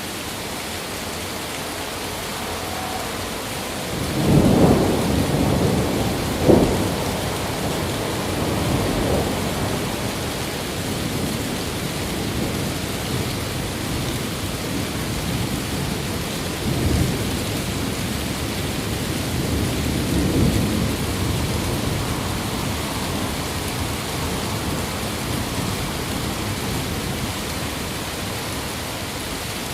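Steady rain with thunder. A loud rolling peal builds about four seconds in, with a sharp crack soon after, and two weaker rumbles come later.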